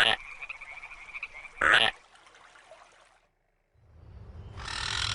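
Frog calls: two short, loud croaks about a second and a half apart, with a steady pulsing trill between them. After a brief silence, a low background rises and a harsh call begins near the end.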